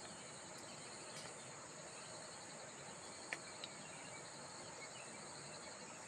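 Steady high-pitched insect chorus over a faint even hiss, with one short click a little past three seconds in.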